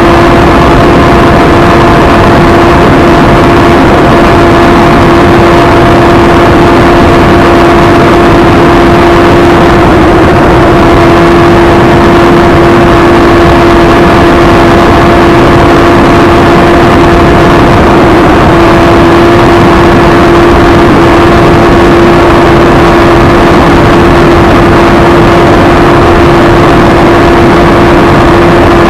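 Suzuki Hayabusa's inline-four engine held at high, steady revs near its 11,000 rpm limit in sixth gear at top speed, with a loud, even rush of wind over the microphone.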